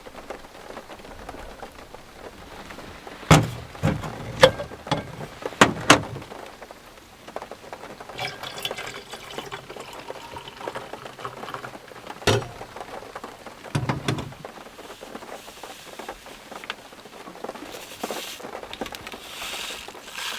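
Steady rain falling, with a handful of sharp knocks in quick succession a few seconds in, another about twelve seconds in, and some rustling of gear.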